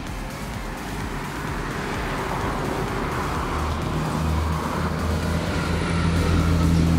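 Road traffic passing on a busy avenue, a steady rush of tyres and engines that slowly grows louder. From about four seconds in, a heavier vehicle's low engine drone joins it.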